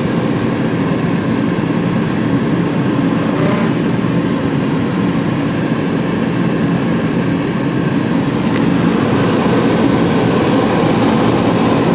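Steady running noise inside the cabin of a 2006 Lincoln Town Car with its 4.6-litre V8 idling and the climate-control fan blowing.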